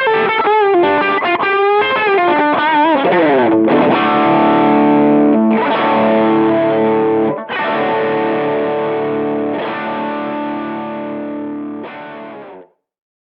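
Overdriven electric guitar through a Behringer Vintage Overdrive TO100, a Tube Screamer-style green overdrive. A lead line of bent, wavering notes slides down into chords, which are struck four times and left to ring. The last chord fades and cuts off near the end.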